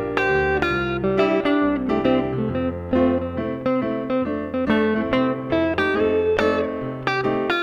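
Guitar music: plucked notes picked in a steady rhythm over a bass line.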